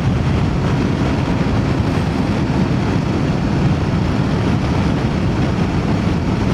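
Voge DS525X motorcycle under way at a steady speed: constant rush of wind and engine and road noise, without change.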